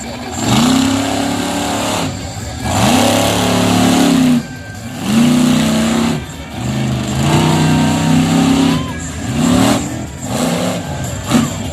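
Monster truck engine revving hard in repeated surges, its pitch climbing and falling away every second or two with brief drops between them.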